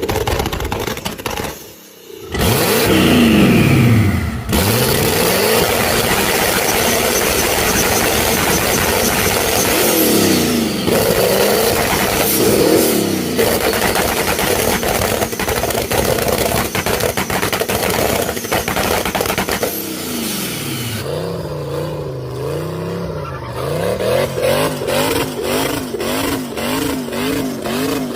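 Turbocharged car engines revving hard, their pitch sweeping up and down, heard in several short clips. From about 21 seconds in, an engine is blipped rapidly up and down with a steady crackle.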